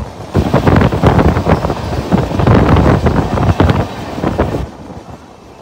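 Express passenger train running past close by, its wheels rattling over the rails, with heavy wind buffeting on the microphone. The noise rises sharply just after the start and falls away about a second before the end.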